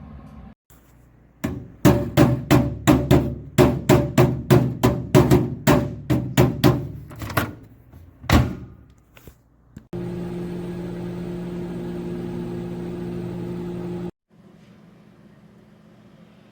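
A quick run of sharp knocks, about three a second for some six seconds, then one more knock. Then a Panasonic NN-SN686S inverter microwave oven runs with a steady hum for about four seconds and cuts off suddenly.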